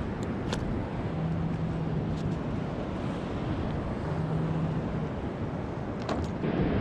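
Wind buffeting the microphone over open sea water, with a low steady hum that comes and goes twice, about a second each time, and a few faint clicks.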